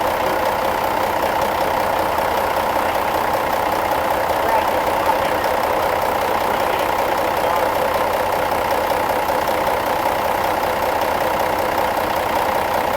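Large truck engine idling steadily.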